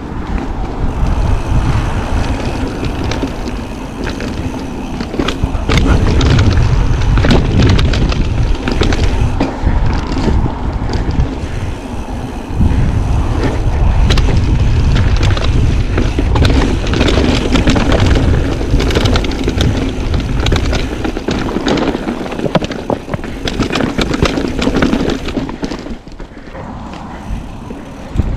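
Mountain bike riding a rocky dirt trail: wind rushing over the microphone, with constant clattering and rattling as the bike rolls over rocks. It quiets briefly near the end.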